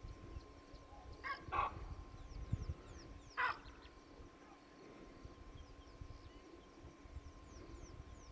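Outdoor bush ambience with short, harsh animal calls, a quick pair about a second in and one more past three seconds, over faint high chirping and a low rumble.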